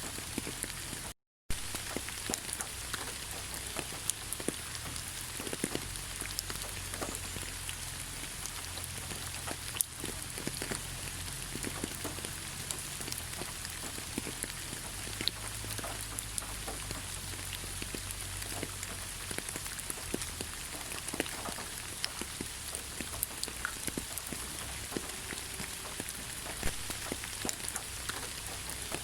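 Steady rain falling in a forest: an even hiss with many single drops ticking throughout. The sound cuts out completely for a split second about a second in.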